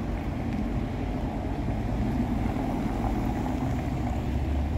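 Mercedes-AMG SL 63's 4.0-litre twin-turbo V8 idling with a steady low rumble.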